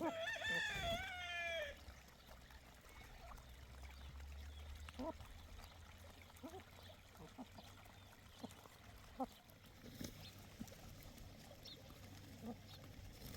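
A sheep bleats once, a wavering call of about a second and a half that slides slightly downward. Faint scattered short sounds follow.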